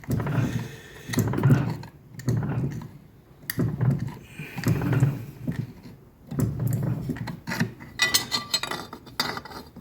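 Fly press bumped down again and again on a cold 2 mm steel plate to press in leaf veins: a series of dull metallic clunks about once a second, with lighter metal clinks, busiest near the end.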